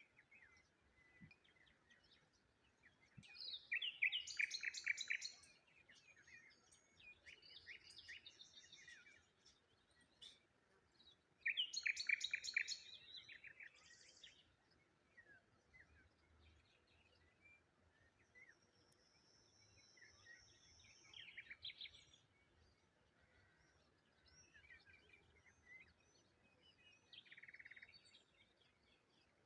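Wild birds singing and chirping, faint overall. Two louder phrases of rapid, trilled song come about four and twelve seconds in, with scattered quieter chirps between and a thin, steady high whistle about two-thirds of the way through.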